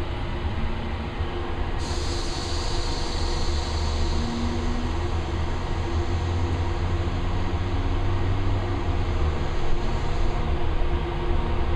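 Ryko SoftGloss Maxx automatic car wash machinery running, heard from inside the car: a steady low rumble and hum. About two seconds in, a hiss of spray on the car starts suddenly, then fades away later on.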